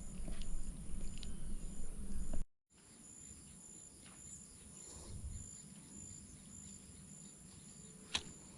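Faint outdoor ambience with an insect chirping in a steady high pulse. A low rumble fills the first two and a half seconds, then breaks off at a cut, and a single sharp click comes near the end.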